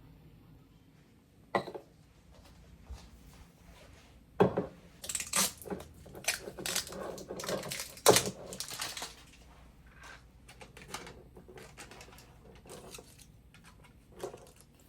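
Kitchen work sounds: dishes and utensils knocking and clattering. There is one knock about a second and a half in, then a busy run of clinks and knocks for about four seconds, then lighter clicks and one last knock near the end.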